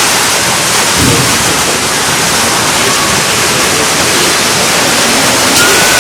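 Heavy typhoon rain pouring down steadily, a loud, dense, even hiss.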